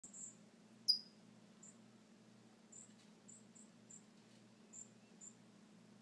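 Small birds giving thin, high chirps that repeat irregularly about every half second, with one loud, sharp downward-sliding call about a second in.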